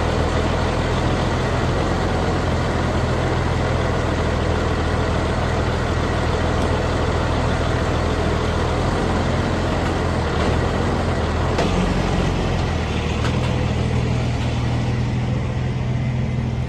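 A semi truck's diesel engine running steadily at idle, with a few light knocks about two-thirds of the way through.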